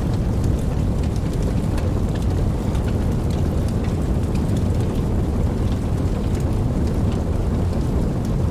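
Steady rain with a low, continuous rumble underneath and scattered ticks of single drops, with no sharp thunderclap.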